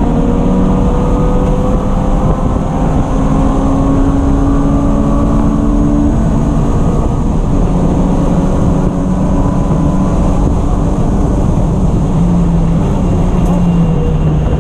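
Race car engine running hard under load, its pitch climbing slowly and dropping about six seconds in and again near the end.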